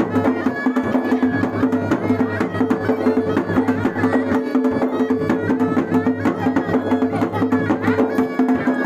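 Traditional Garhwali folk dance music: rapid, dense drum strokes over a steady held drone, with the deep bass part dropping out near the end.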